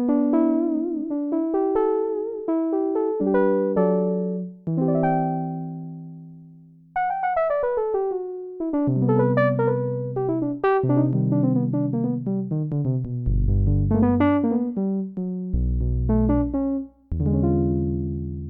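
Roland JX-8P analog polysynth played with an electric-piano-like patch: struck chords and melody notes that decay, over held bass notes lower down, with light reverb.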